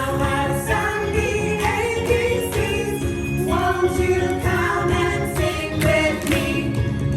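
Song with several voices singing together over a backing track.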